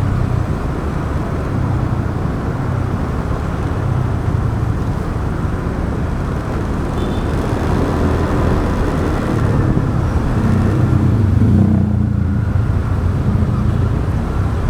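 A motorbike being ridden along a city road: steady engine, tyre and traffic noise picked up by a camera on the bike. The low rumble swells briefly near the end.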